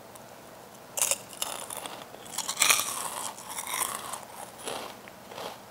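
A person biting into a crunchy snack about a second in, then chewing it with repeated crisp crunches, loudest around the middle.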